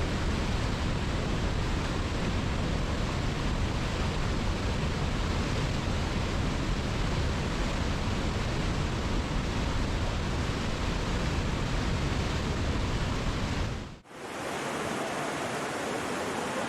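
Steady rushing roar of a waterfall, deep and even; about fourteen seconds in it drops away briefly and gives way to a lighter rush of water with less rumble.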